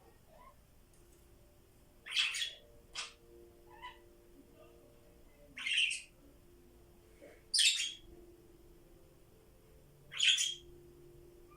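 Pet parrots calling: five short, harsh calls a couple of seconds apart, with a few faint chirps between them.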